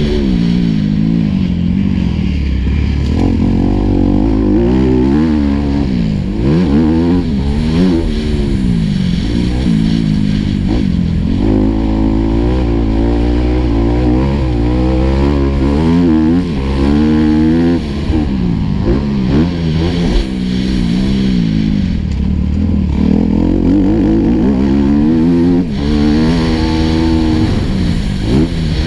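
Four-stroke motocross bike engine heard on board, revving hard and rolling off over and over as the rider accelerates, shifts and brakes around the dirt track. Its pitch keeps climbing and dropping.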